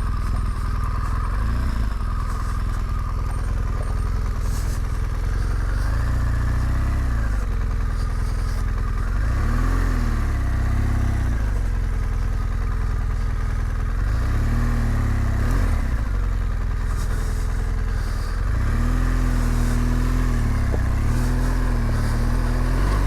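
Adventure motorcycle engine running under way, its pitch rising and falling with the throttle several times, over a steady low rumble.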